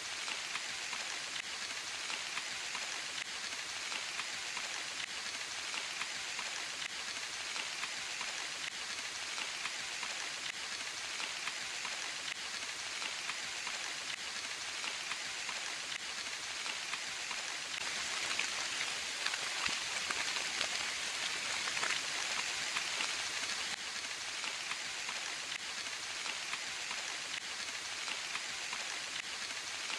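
Steady rain falling in a forest, an even dense patter of drops that grows a little heavier for a few seconds about two-thirds of the way through.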